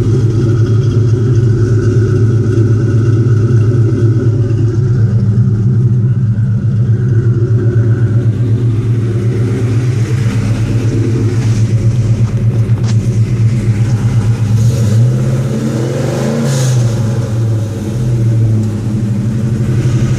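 Modified Ford Mustang GT V8 with stage 2 heads, custom-grind cams, long-tube headers and a cat-back exhaust, idling with a choppy, uneven beat. Near the end the throttle is blipped briefly, the engine revving up and falling back to idle.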